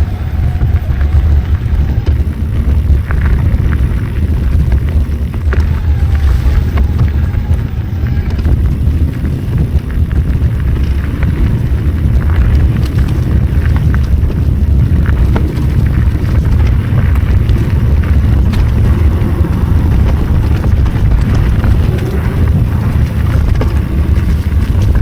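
Wind buffeting the microphone of a rider moving along a trail: a loud, steady low rumble with scattered light rattles and clicks.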